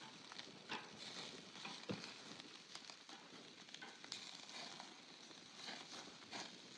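Faint sizzling and crackling of food cooking over a campfire, with many small sharp pops scattered through a steady hiss.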